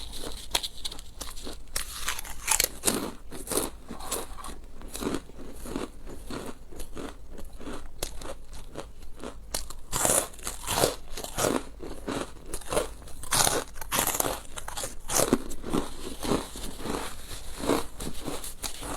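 Close-miked eating: biting into and chewing crunchy food, with irregular crisp crunches several times a second.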